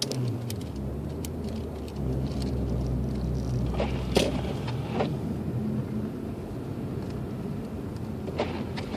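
Cabin noise of a 2006 Lexus IS250 AWD driving on a snow-covered road: a steady low rumble of tyres and drivetrain that swells for a couple of seconds about two seconds in, with a few light clicks.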